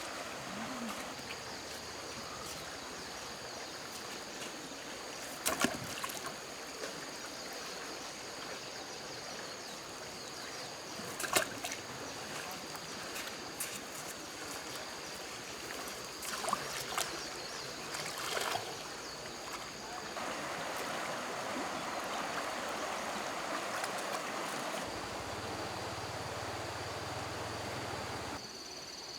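Running water with a few short splashes, and a louder rush of water in the last third that stops suddenly.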